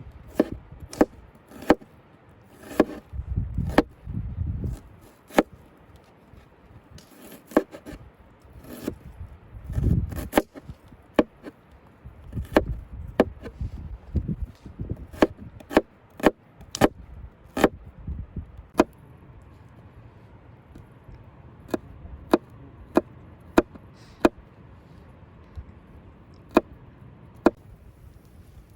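A blade chopping down onto wood in sharp, irregular strokes, about one or two a second, with some duller low thuds among them in the first half.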